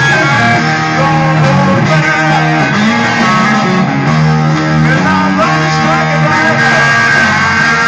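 Rock music led by an electric guitar playing bending, gliding notes over a bass line.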